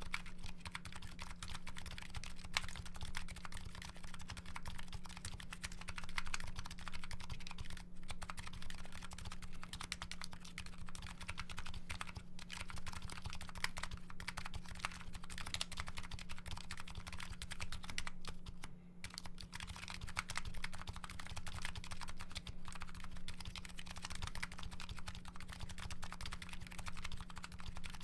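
Continuous fast typing on a Nuxros Kraze custom keyboard fitted with MetaKeebs MetaPulse electrocapacitive switches and CRP R5 keycaps, a dense run of keystroke clacks with a brief pause a little past the middle.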